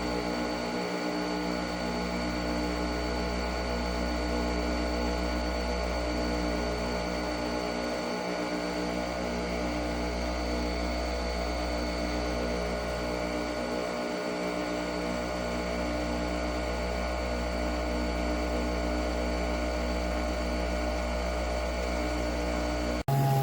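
Nespresso Vertuo Pop+ capsule coffee machine running a brew: a steady motor hum with a whine of fixed tones from the capsule spinning in the brewing head.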